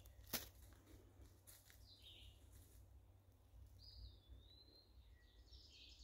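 Faint, distant birds calling, a few scattered calls with a whistled falling note in the middle and a cluster of chirps near the end. A single brief click comes just after the start.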